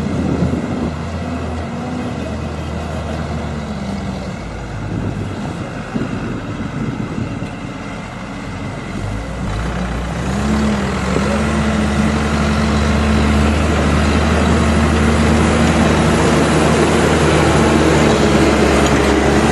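Heavy vehicle engine running steadily; about ten seconds in its pitch rises a little and it gets louder.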